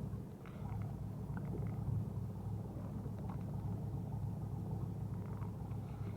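Fishing boat's engine running with a steady low drone, with faint light clicks and knocks over it.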